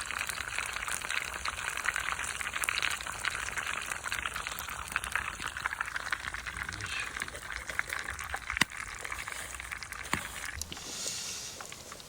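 Hot oil sizzling and crackling steadily as a batter-coated cheese hotdog fries, with many small pops; the sound changes abruptly to a softer hiss near the end.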